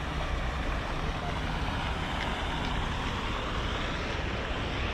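Steady wind rumbling on the microphone outdoors, an even noise with no distinct sounds standing out.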